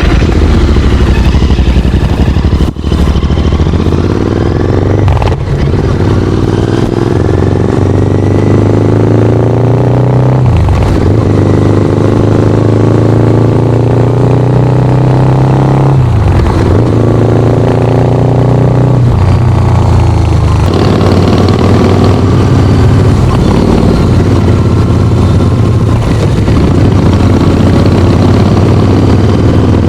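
Harley-Davidson motorcycle engine pulling hard, its pitch climbing and then dropping sharply at each gear change, about four times, then running at a steadier pitch for the last ten seconds.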